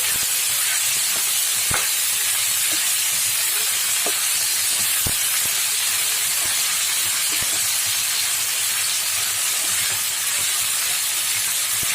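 Chopped mixed vegetables sizzling steadily in hot oil in a pan while being fried, with scattered sharp crackles and clicks.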